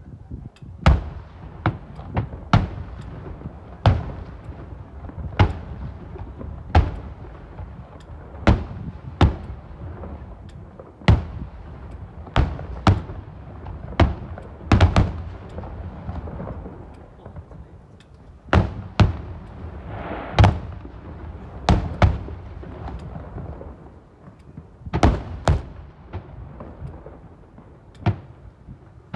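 Aerial fireworks shells bursting in a steady barrage. About twenty sharp booms come at irregular spacing, roughly one a second, each trailing off in an echo over a continuous low rumble.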